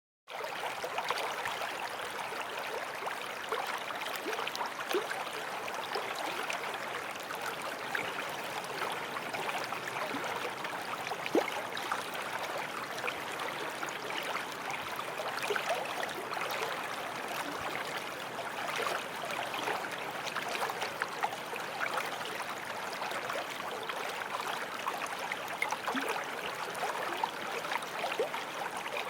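A forest stream flowing, a steady rush of water with fine splashes and gurgles, starting suddenly just after the start.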